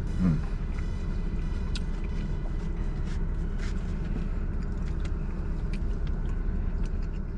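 Steady low rumble with scattered small clicks and taps from someone eating.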